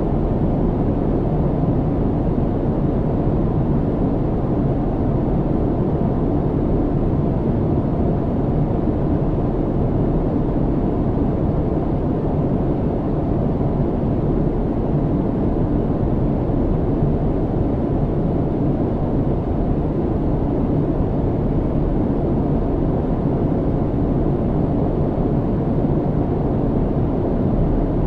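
Airplane cabin noise in flight: a steady, even low rumble that does not change.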